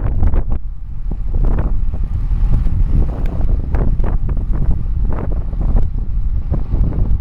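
Wind buffeting the camera microphone on a bicycle moving fast downhill, a loud, constant low rumble that swells and dips with the gusts.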